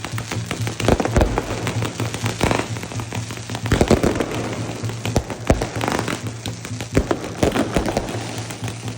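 Fireworks going off: a dense, irregular crackle of small pops with louder bangs standing out now and then, about a second, four seconds and five and a half seconds in.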